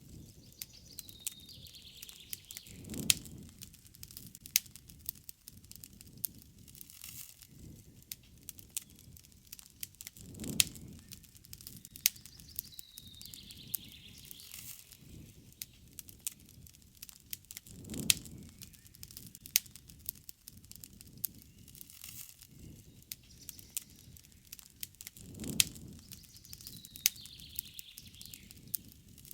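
Wood campfire crackling, with many sharp pops and snaps throughout. A bird calls in short chirping phrases three times, and a low rushing swell rises and fades about every seven or eight seconds.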